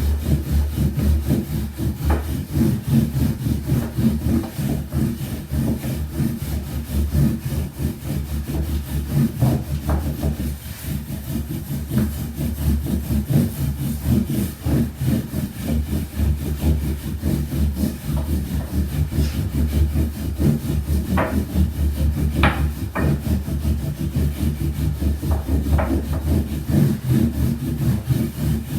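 Wooden rolling pin rolling and rubbing soba dough across a wooden board in continuous back-and-forth strokes, with a few light knocks of wood on wood about three quarters of the way through.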